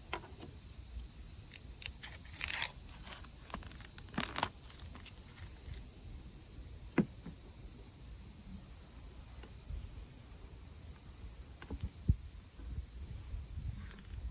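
Steady high-pitched insect chorus, with scattered light clicks and knocks; the two sharpest knocks come about seven and twelve seconds in.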